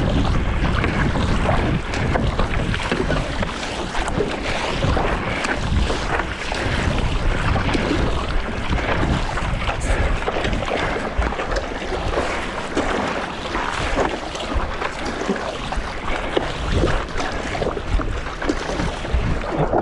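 Wind buffeting the microphone over continuous splashing of choppy sea water around a stand-up paddleboard.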